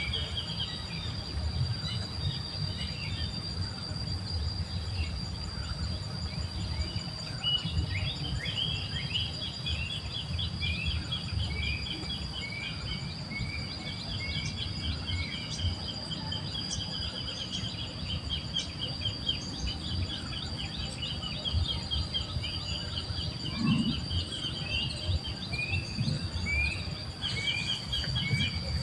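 Outdoor nature ambience: a steady high insect drone underneath runs of quick, repeated bird chirps, over a constant low rumbling noise.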